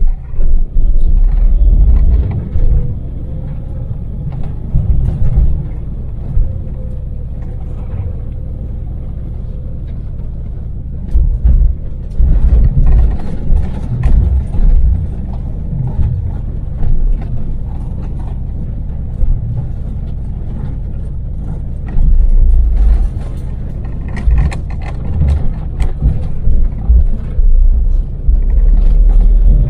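In-cab running noise of a Daewoo Damas microvan's small three-cylinder LPG engine cruising on an expressway, with a steady low rumble of engine and road. Heavy, very deep rumbling surges lasting a second or more come and go several times.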